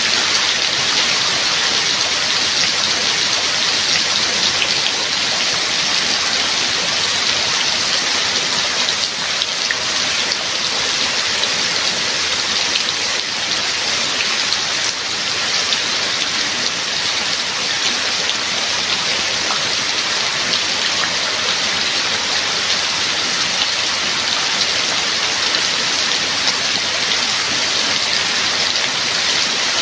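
Steady rain falling, with the patter of drops on a surface.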